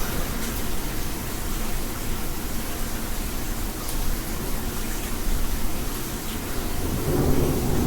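Heavy rain pouring down outside in a storm, a steady rushing hiss with a few faint ticks of rain and hail hitting the house.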